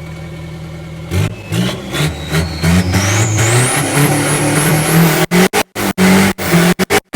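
Car engine idling, then revved hard from about a second in, climbing with a rising high whine while the car attempts a burnout in sand. Near the end the sound drops out sharply several times.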